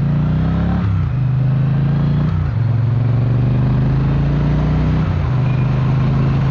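Triumph parallel-twin motorcycle engine pulling under acceleration as heard from the saddle, its pitch climbing and then dropping back at gear changes about a second in, around two and a half seconds in and again near five seconds. It has a soft, calm rumble.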